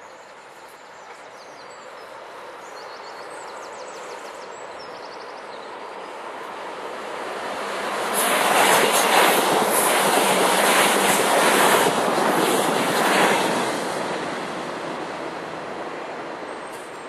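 A train passing close by at speed, out of sight: a rushing rumble of wheels on rail that builds over several seconds, is loudest for about five seconds in the middle, then fades away.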